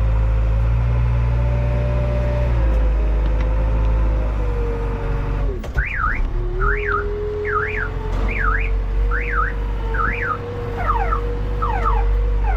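Diesel engine of heavy machinery running steadily. About halfway through, an electronic alarm starts: a repeated rising-and-falling warble a little over once a second, which turns into quicker falling chirps near the end.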